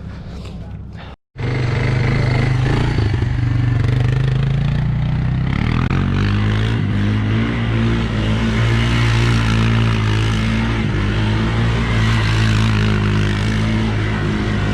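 Engine running steadily, starting after a brief cut about a second in, with a slight rise in pitch around the middle.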